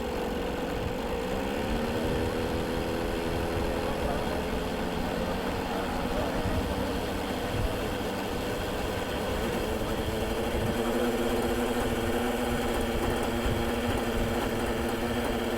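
Small glow-fuel model engine of an MD-530 RC helicopter running steadily. Its pitch rises about a second or two in, then holds, over a low rumble.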